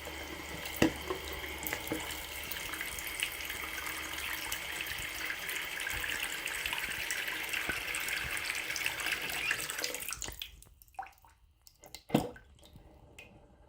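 Water running from a bathroom faucet into the sink in a steady stream, shut off about ten seconds in. A few light clicks and knocks follow, the loudest about two seconds after the water stops.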